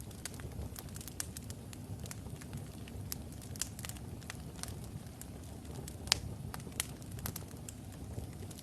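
Wood logs burning in a fireplace: steady low rumble of the fire with frequent irregular crackles and pops, one sharper pop about six seconds in.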